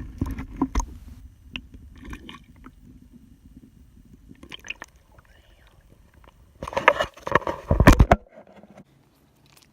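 Knocks, scrapes and water sloshing around a small jon boat, with a louder burst of noise and low thumps near the end.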